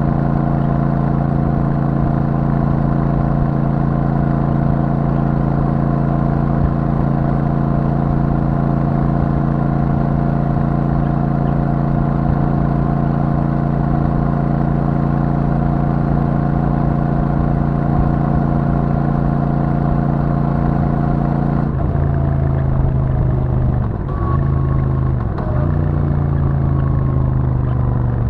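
Royal Enfield Super Meteor 650's 648 cc parallel-twin engine running through its stock exhaust at a steady cruise. About three-quarters of the way through the note changes and falls, with two brief dips in the engine sound, as the bike slows.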